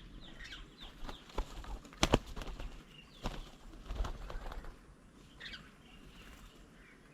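Birds at a feeding table: wingbeats and several sharp knocks, the loudest about two seconds in, with short high chirps near the start and again about five and a half seconds in.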